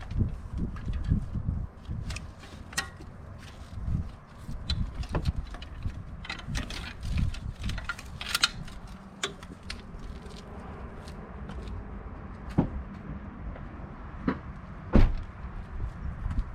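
Scattered clicks, rattles and knocks over a gusty low rumble, with one sharp knock about fifteen seconds in.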